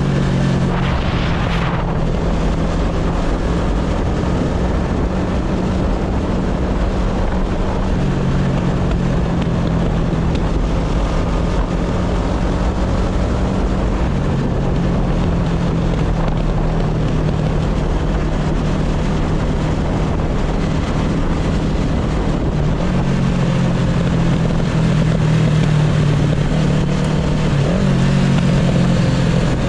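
Motorcycle engine running under way, its steady low note stepping up and down in pitch a few times as the speed changes, over a rush of wind on the microphone.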